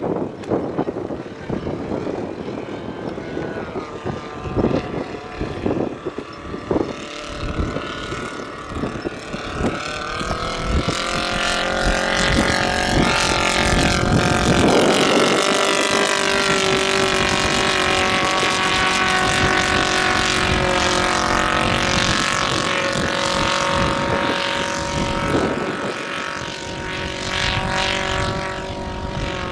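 Propeller engine of a radio-controlled scale model aircraft in flight, rising in pitch and growing louder from about ten seconds in, then holding a steady drone. Wind buffets the microphone during the first several seconds.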